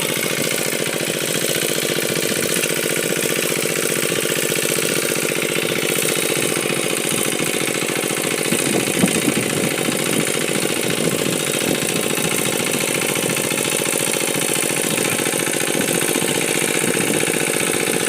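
An engine running steadily at an even speed, with a constant hum and noise.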